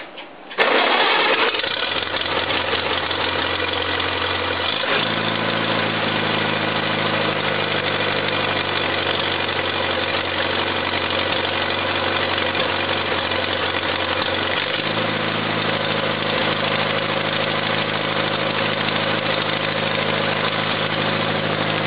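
1952 Farmall Cub's four-cylinder flathead engine catching on a cold start about half a second in, then running steadily. Its running speed shifts about five seconds in and again near fifteen seconds.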